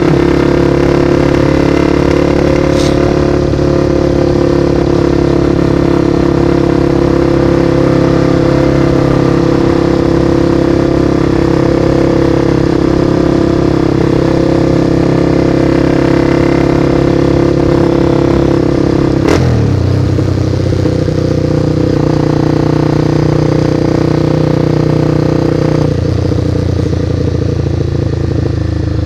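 Motorcycle engine running at steady revs while riding. Its note drops suddenly about two-thirds of the way through, after a sharp click, and drops again near the end.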